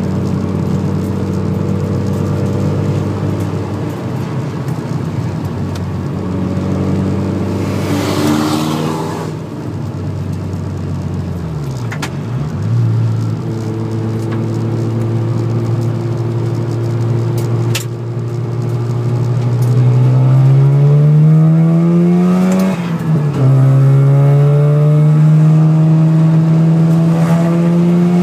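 Car engine heard from inside the cabin on a circuit lap, holding steady revs at first, then falling off and recovering after about ten seconds. Further on it climbs through the revs, drops sharply at an upshift about three quarters of the way in, then pulls up again.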